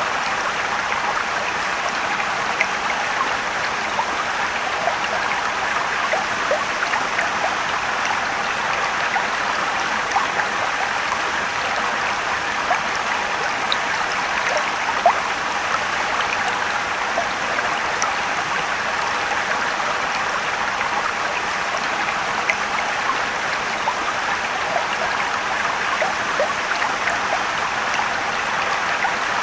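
Rushing and trickling water of a mountain stream below a waterfall: a steady wash of water noise with many small splashes and plinks scattered through it.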